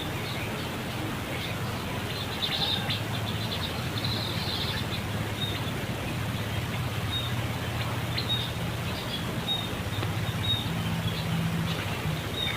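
Short high-pitched animal chirps, a cluster of them a couple of seconds in and scattered single ones later, over a steady low hum.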